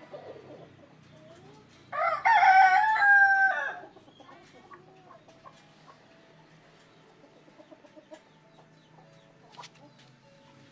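A rooster crowing once, a loud call of about two seconds held at a steady pitch, followed by faint short chirps.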